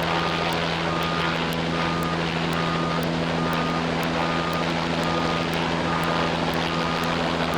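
Fire apparatus diesel engine running steadily under a dense rushing noise, with a short high warning beep repeating about every 0.8 seconds as the aerial ladder is moved.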